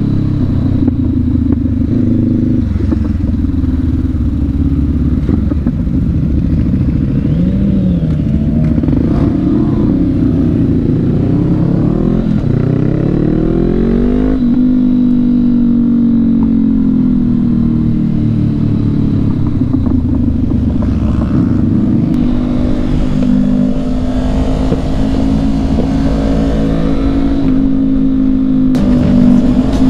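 2019 Honda CB500X's parallel-twin engine running at road speed. The revs climb from about twelve seconds in, then fall sharply at an upshift and hold steady.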